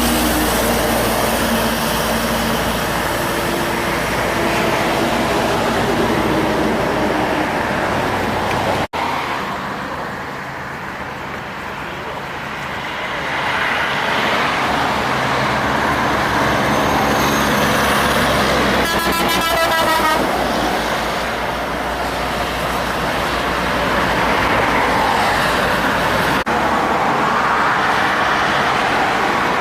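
Heavy diesel trucks passing on a highway, engines running over tyre and road noise. Just after the middle there is a short rattling, tone-like sound lasting a little over a second.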